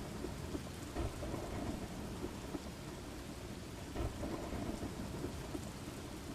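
Steady rain with thunder rumbling low underneath, swelling briefly louder about a second in and again about four seconds in.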